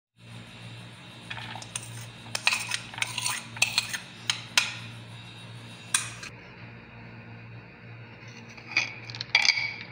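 Kitchen utensils clinking against dishes: a run of sharp clinks for the first several seconds, then a few more near the end, over a steady low hum.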